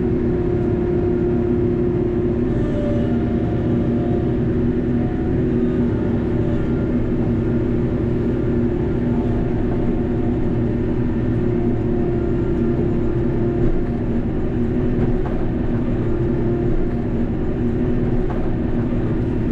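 Steady drone of a TYM T574 tractor's diesel engine and hydrostatic hydraulic pumps, heard from inside the cab while it works under load. The drone holds even throughout, with its pitch shifting slightly now and then.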